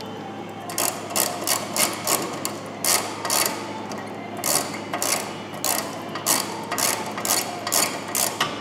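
Irregular mechanical clicking and clacking, a few sharp clicks a second in uneven bunches, over a steady low hum.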